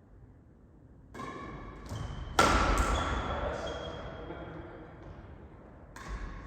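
Badminton rally sounds: sharp racket hits on a shuttlecock, with a loud smash about two and a half seconds in that rings on in the hall's echo, and another hit near the end.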